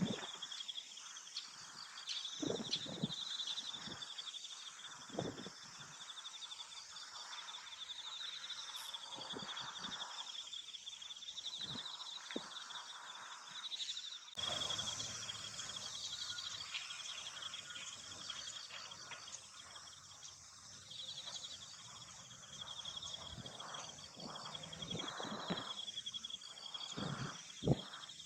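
Insects chirping in a steady, high, finely pulsing trill, with a few soft low thumps, the strongest one near the end.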